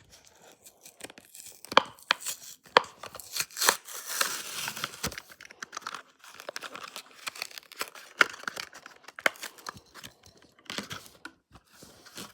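Hot Wheels blister pack being torn open by hand: card tearing and plastic crinkling, with many sharp clicks and snaps, busiest in the first half.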